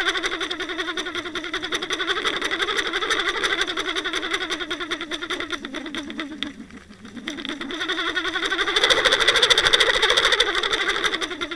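A watercraft engine heard underwater through a trolled camera: a steady drone with rapid ticking, its pitch wavering, sagging and fading briefly about seven seconds in before rising again.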